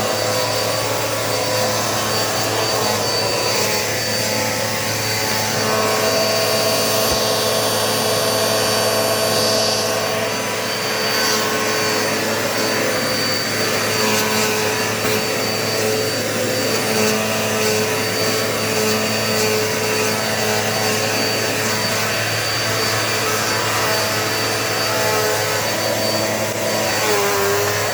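Dirt Devil multi-surface vacuum cleaner running steadily, its motor whining at a constant pitch as it picks up dirt.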